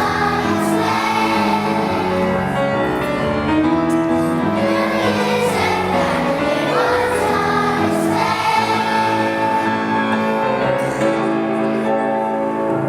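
A choir singing a slow song in harmony, with held notes that change every second or so.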